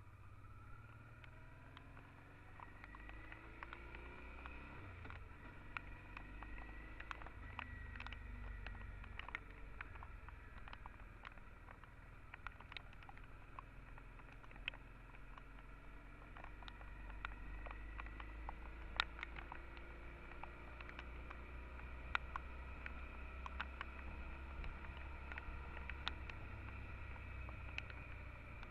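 Honda Transalp XL650's V-twin engine running on the move, its pitch rising and falling with speed over a steady low rumble, with many sharp ticks of rain drops hitting the camera scattered through.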